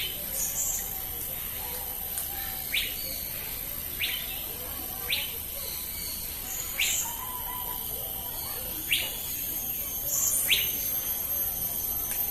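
A bird giving a short, upward-sweeping call note, repeated about seven times at one- to two-second intervals, with a few fainter higher chirps, over a steady high-pitched hiss.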